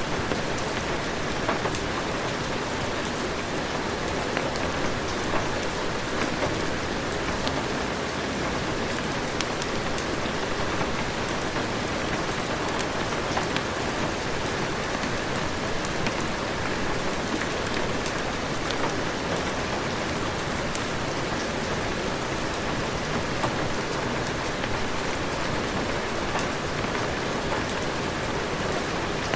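Steady heavy rain falling, an even hiss dotted with many small sharp ticks.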